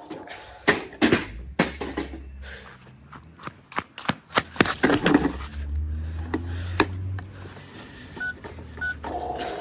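A string of sharp plastic knocks and clicks from a toy washing machine being handled and broken apart, with a low hum underneath and two short electronic beeps near the end.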